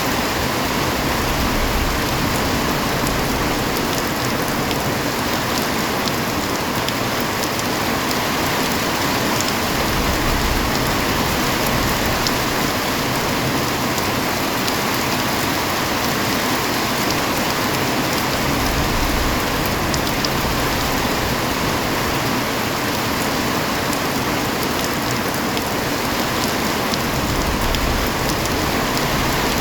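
Heavy rain falling steadily: a dense, even hiss with fine scattered drop impacts. A low rumble swells up softly a few times.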